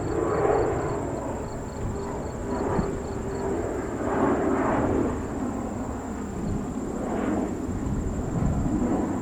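Jet airliner engine noise, a steady rumble that swells and eases a few times.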